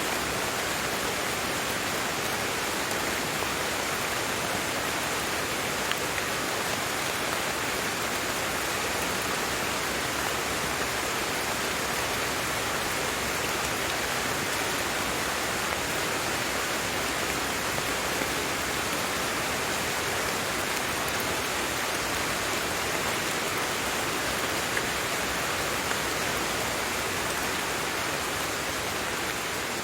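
Steady rain falling, an even hiss of drops with a few individual drop ticks.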